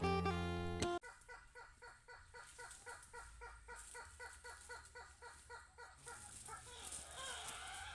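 Guitar music cuts off about a second in. A bird then calls in a fast, even series of short clucking notes, about four to five a second, and after about five seconds breaks into looser rising and falling calls.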